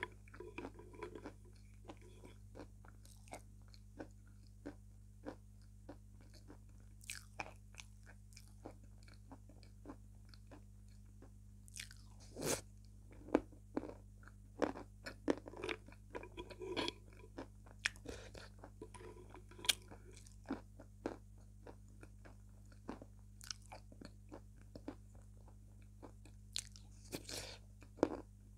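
Close-up chewing and biting: a steady string of crisp crunches and wet mouth clicks, with a few louder crunches around the middle.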